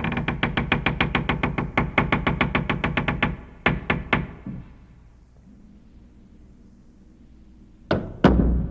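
Rapid knocking, about eight knocks a second for a little over three seconds. Then three more knocks, a pause, and two heavy knocks near the end, the last the loudest.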